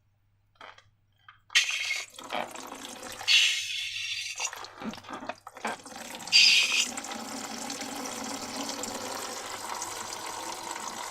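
Liquid pouring into a container, with short wet splashes and handling noises that settle into a steady stream for the last several seconds, after a second or so of silence at the start.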